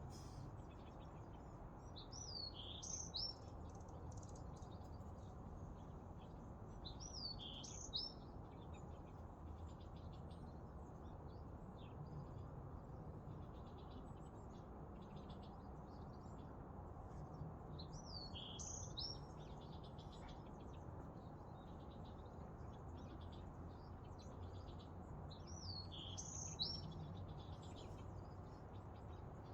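Wild birds singing faintly: one bird repeats a short phrase of a few quick, looping high notes every several seconds, with fainter chirps between, over a steady low background rumble.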